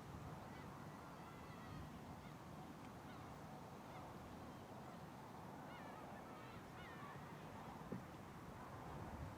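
Faint bird calls, several short wavering notes, over a low steady background rumble.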